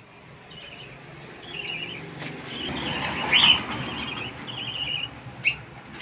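Birds in a bird shop chirping, a chorus of short, repeated high trilled calls, with one louder call about halfway through and a sharp click near the end.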